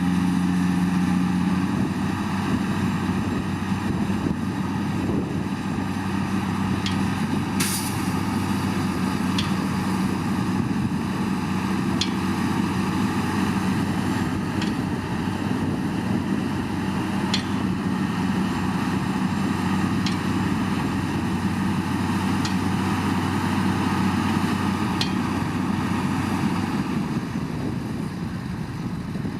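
Heavy diesel engine of earthmoving machinery running steadily, with faint sharp ticks every two to three seconds and one louder click about eight seconds in.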